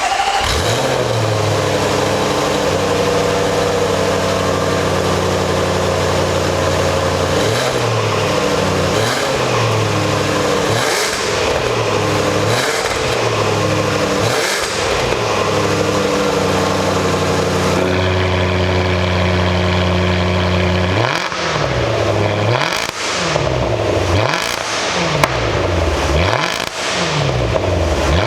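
Range Rover Sport V8 through a custom valved titanium exhaust with four tails, just started and running at a steady idle, then blipped repeatedly, the pitch rising and falling back with each rev. After a steady stretch it is given a run of quick, sharp revs about once a second near the end.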